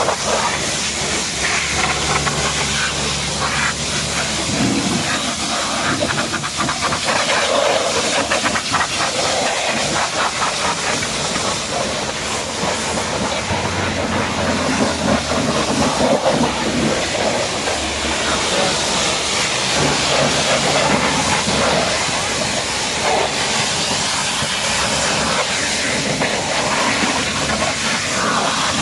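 Pressure washer spraying water onto a car body: a loud, steady hiss that shifts a little as the spray moves over the panels.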